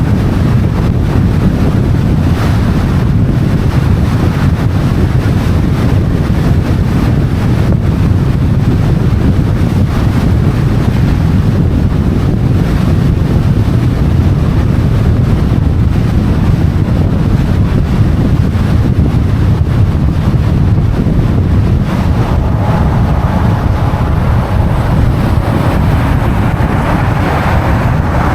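Wind buffeting the microphone: a loud, steady low rumble. A faint higher tone comes in over the last several seconds.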